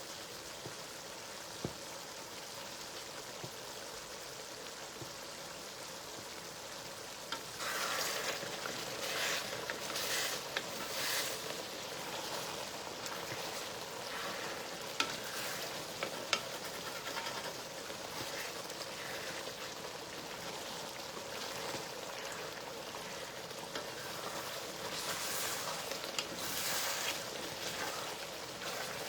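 A stew sizzling as it fries in a pot. From about seven seconds in, a spoon stirs it in repeated surges, with a couple of sharp clicks of the spoon on the pot.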